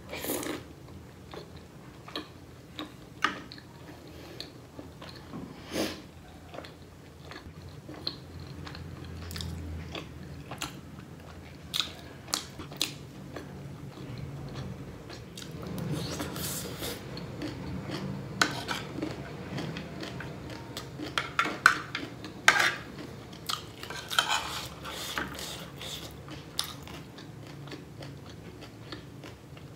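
Close-up chewing and biting of momo dumplings and chatpatey. A metal spoon clicks against the plates and bowl now and then, more often in the second half.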